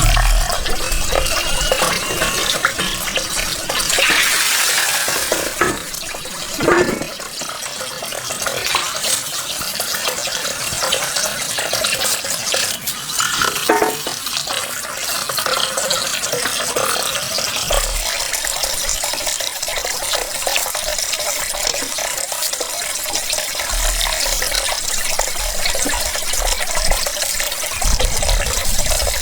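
Water running and splashing steadily, with a brief louder gush about four seconds in and a few light knocks.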